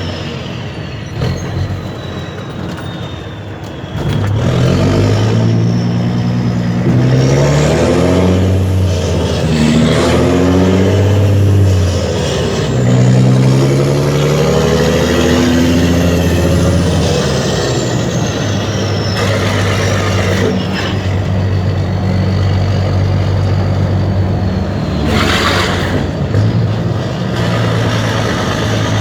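Mercedes-Benz Actros 2636's V6 diesel on an open, straight-through exhaust, accelerating through several gears: the engine note climbs and drops back at each shift, then holds steady. A short hiss comes near the end.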